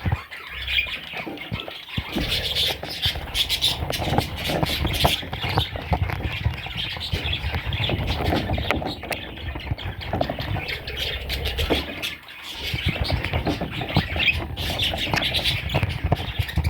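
Budgerigar chicks squawking and chattering continuously, mixed with scratchy clicks and bumps. Everything drops off briefly about three-quarters of the way through.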